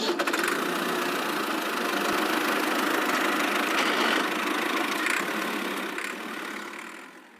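A small motor running steadily, then fading away near the end.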